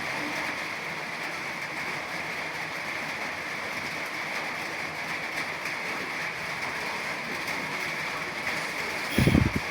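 Steady rain hiss. About nine seconds in, a short, loud, low bump cuts through it.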